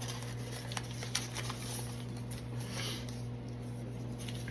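Faint rustling and a few light clicks from a trading-card mailer being handled and opened. A steady low electrical hum runs underneath.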